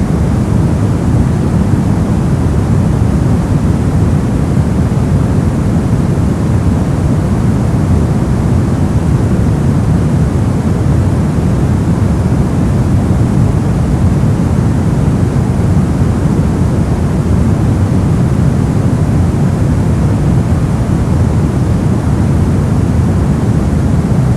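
Steady noise generated for sleep masking, sold as white noise but weighted toward the low end: a deep, even rush with no changes.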